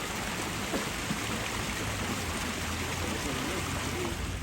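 Waterfall water rushing and splashing in a steady roar, with faint distant voices underneath.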